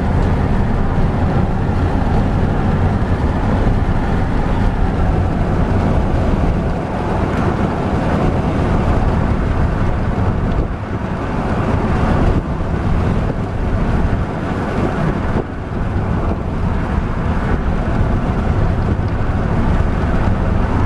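Strong wind rushing and buffeting the microphone in a loud, steady roar that swells and dips a little.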